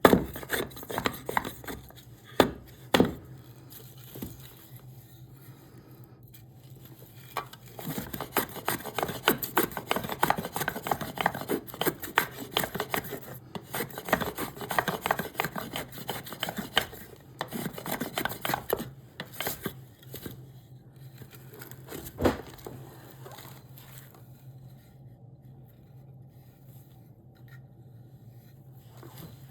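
Cherry wood being shaped by hand with a rasp or chisel for an axe handle. A few sharp knocks come first, then a long run of quick scraping strokes, with another single knock about 22 seconds in and lighter scraping after it.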